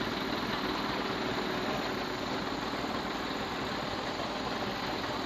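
Heavy diesel earthmoving machinery running steadily at a constant engine speed, with no distinct knocks or bangs.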